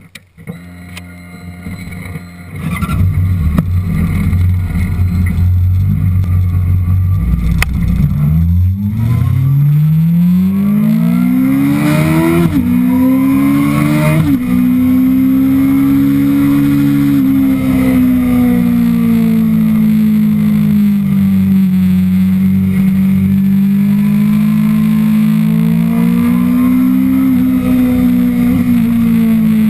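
Sport motorcycle engine, heard through a camera on the fuel tank as the bike is ridden. After a few seconds it gets much louder. The engine pitch then climbs steadily as the bike accelerates, drops sharply twice at quick upshifts, and settles to a steady cruising note that rises and falls gently.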